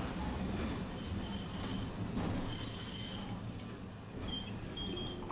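Tosaden street tram's wheels squealing against the rails in thin high-pitched squeals, two longer ones followed by shorter ones near the end, over the low rumble of the running car.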